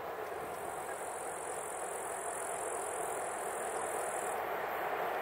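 Approaching passenger train hauled by a ChS7 electric locomotive, heard from a distance as a steady rumble that slowly grows louder. A high steady hiss underneath cuts off about four seconds in.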